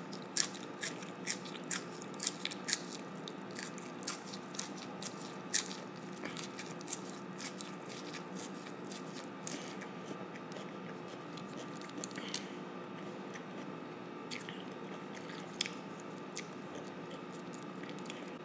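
A child chewing a big mouthful of leafy salad greens close to the microphone: crisp, crunching clicks, thick and fast for the first several seconds, then sparser as the chewing slows.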